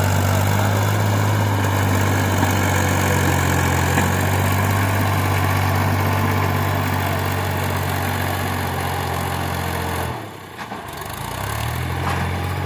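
Tractor engine running steadily at a low, even pitch. About ten seconds in, the sound drops away for a moment, then the engine comes back, rising in pitch.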